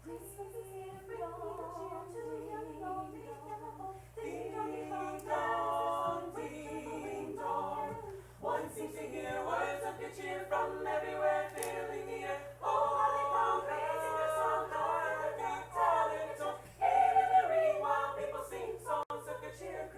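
A group of voices singing a cappella, with vibrato on held notes.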